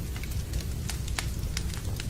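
Wood fire crackling in a fireplace, sharp irregular pops over a steady low rumble, mixed with the even sound of rain.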